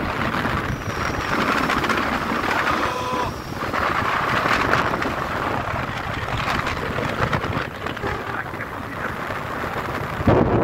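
Wind buffeting the microphone while riding a motorcycle, with the engine and tyre noise running steadily underneath.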